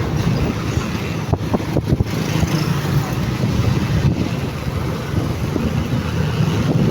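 Motorcycle engine running with road and traffic noise, a steady low rumble, with a few brief knocks about a second and a half in.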